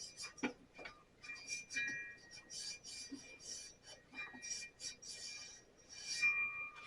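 Hand wiping and scrubbing the rim of a bandsaw wheel clean, a series of short rubbing strokes, with a couple of light clicks of handling about half a second in.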